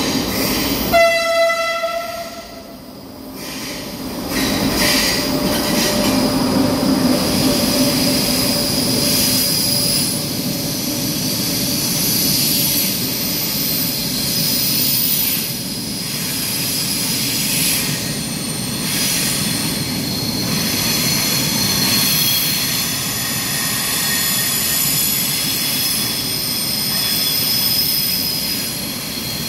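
ETR500 Frecciarossa high-speed train sounding one horn blast about a second in. It then runs past the platform with a steady, loud rolling noise and thin high-pitched whines over it, between concrete tunnel walls.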